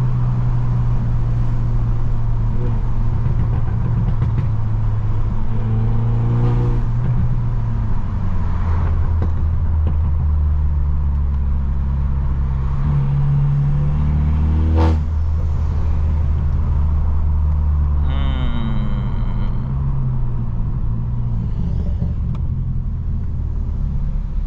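Straight-piped BMW F30's engine and exhaust droning steadily under way, heard from inside the cabin. The pitch drops about eight seconds in, there is a single sharp crack about fifteen seconds in, and a brief falling whine follows a few seconds later.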